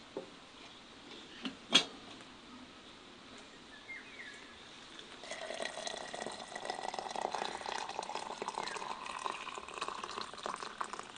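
Water being poured into a container from about five seconds in, the gurgling pitch rising as it fills. A single sharp knock sounds near two seconds in, and a few faint bird chirps come through.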